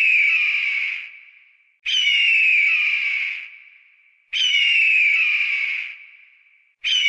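A bird of prey screaming: harsh, drawn-out screeches, each about a second and a half long and sliding slightly down in pitch, repeated evenly about every two and a half seconds.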